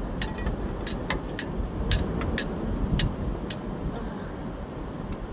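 Steady low rumble of vehicles running, with about a dozen sharp clicks and clinks over the first three and a half seconds from tools and wheel parts being handled during a tire change.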